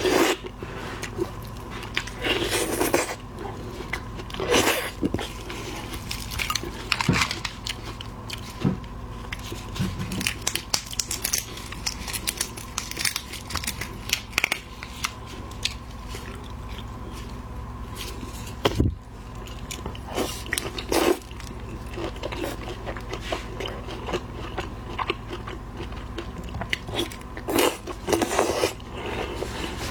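A person biting and chewing a large red prawn: irregular crunches of shell and wet chewing sounds, a few crunches louder than the rest.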